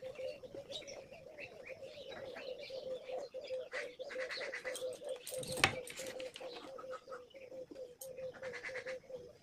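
Birds chirping in the background over a steady, wavering hum, with a single sharp click about five and a half seconds in.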